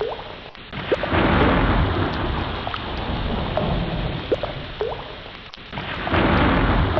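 Ocean surf: a noisy wash of sea water that eases off twice, about half a second in and about five and a half seconds in, and swells back louder each time. Short rising watery blips run through it.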